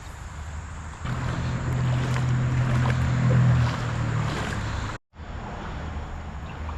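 Steady rush of creek water with the low hum of road traffic, a vehicle passing that swells and fades over a few seconds. The sound drops out for an instant about five seconds in.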